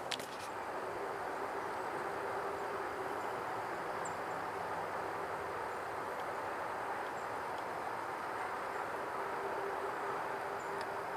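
Steady hum of distant highway traffic, with a few faint high chirps from birds or insects.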